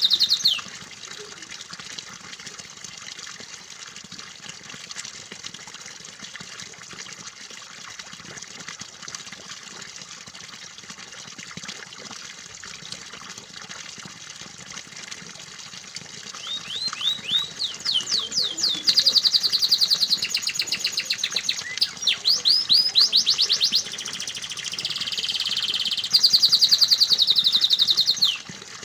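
Steady trickle of running water, then, about halfway through, a domestic canary bursts into loud song over it: fast trills and rapid runs of repeated rising notes that stop shortly before the end.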